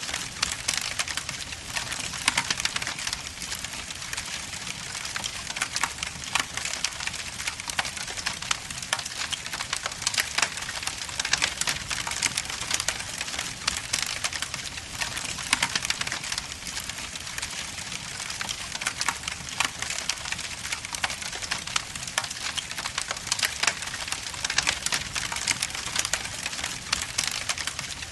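Wood logs burning in a fireplace, crackling with frequent irregular pops and snaps over a steady hiss.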